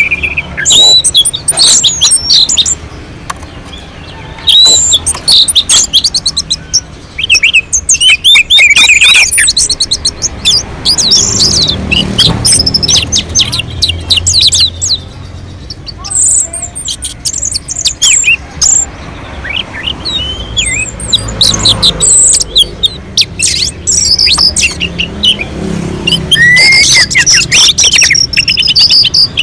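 Orange-headed thrush singing: a long, varied song of rapid high chirps, whistles and trills, delivered in phrases with short pauses between them.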